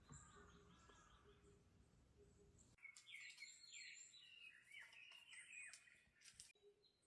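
Faint birdsong: small birds chirping, with a busier run of quick, curving chirps from about three seconds in.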